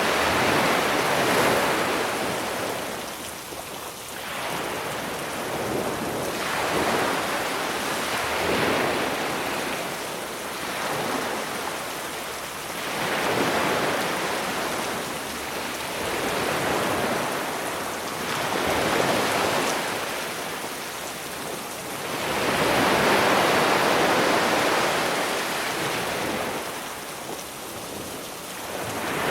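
Sea waves surging and washing up on a beach, swelling and ebbing every few seconds over a steady hiss of rain.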